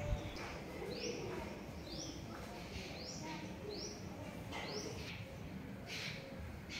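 A bird calling in a repeated short rising whistle, about once a second, with other birds chirping faintly around it. There is a brief low bump right at the start.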